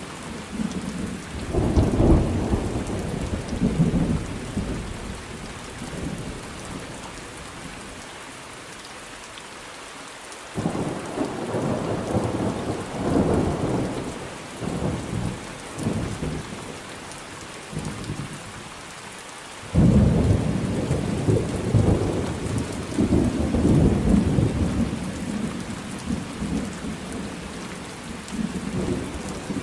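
Thunderstorm: steady rain hiss with repeated thunder rumbles over it. One rumble comes about two seconds in, another starts suddenly about ten seconds in, and the loudest starts sharply about twenty seconds in. Between them there are lulls of rain alone.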